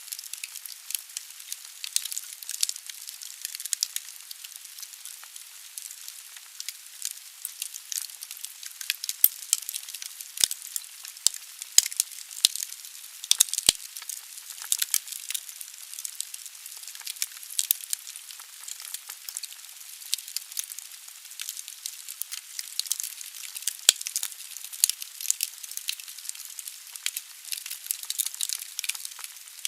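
Wood fire burning in a fireplace: dense, irregular crackling and popping of logs over a steady hiss, with a few sharper, louder cracks scattered through.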